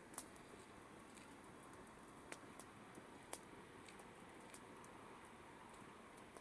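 Campfire crackling: irregular sharp pops from the burning wood over a faint steady hiss, the loudest pops just after the start and about three seconds in.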